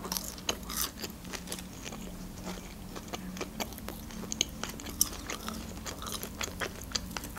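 Close-miked chewing and mouth sounds of a person eating: irregular soft clicks and smacks, a few sharper ones.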